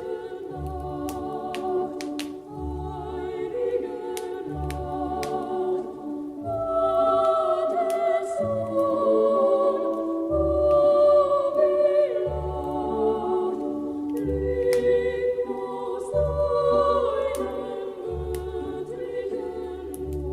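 Christmas choral music: a choir singing sustained chords over a regular low bass pulse, with scattered sharp clicks.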